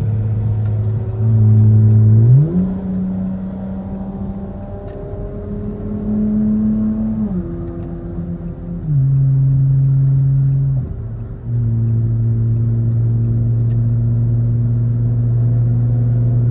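Car engine and exhaust drone while driving. The engine pitch jumps up sharply about two seconds in and holds for several seconds, then drops back in three steps and settles at a steady low drone.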